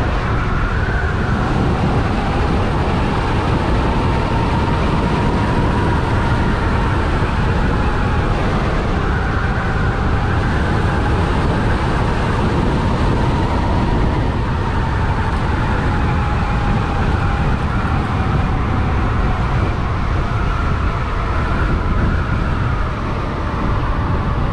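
Electric bike at speed: heavy wind rush on the microphone, with a faint motor whine that slowly rises and falls with speed.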